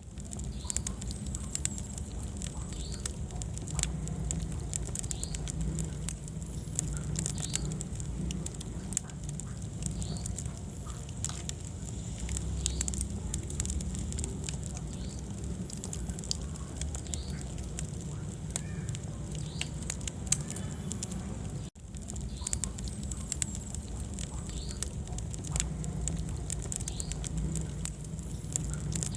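Wood fire burning in a fireplace: irregular crackles and small pops over a steady low rumble of flames. The sound drops out for an instant about three-quarters of the way through.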